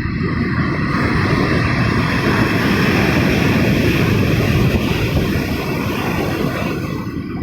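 Ocean wave surging up the shore, a long rush of surf that swells about a second in and dies away near the end.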